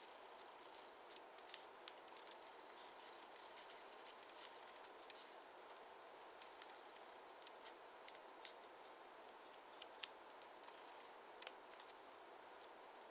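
Faint crinkles and sharp little clicks of origami paper being handled, folded and creased by hand, scattered irregularly over a steady low background hiss, with a couple of louder clicks about ten seconds in.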